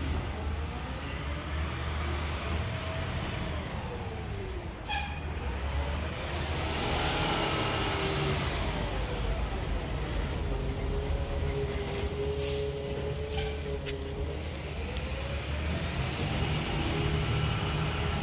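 Freightliner 108SD garbage truck with a McNeilus ZR automated side-loader body running, its engine and hydraulic whine rising and falling in pitch several times, with air-brake hiss and a few sharp knocks.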